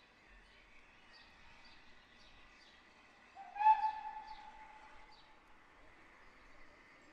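Small birds chirping over quiet outdoor ambience, with a single loud, short whistle-like tone about halfway through that swells up and then fades.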